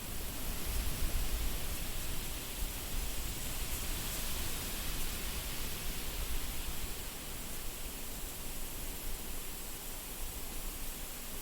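Wind blowing: a steady rushing hiss with a low rumble underneath, rising and falling gently, easing slightly near the end.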